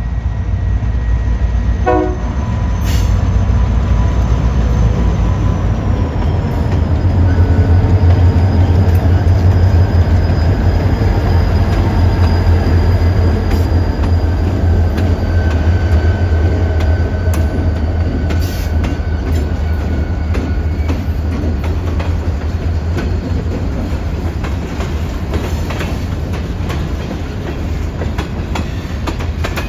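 Keokuk Junction Railway freight train passing: the diesel locomotive's engine gives a deep steady hum, with steel wheels running on the rails and a thin high squeal that dips slightly in pitch about six seconds in. The hum swells in the middle and fades slowly toward the end.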